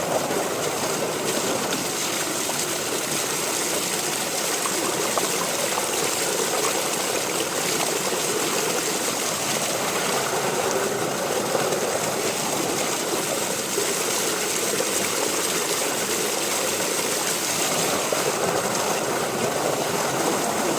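Water running steadily, an even rushing noise with a few faint clicks, that cuts off abruptly at the end.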